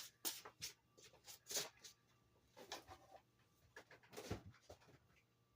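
Faint, scattered clicks and knocks of kitchen items being handled on a counter, with one heavier knock a little past four seconds in.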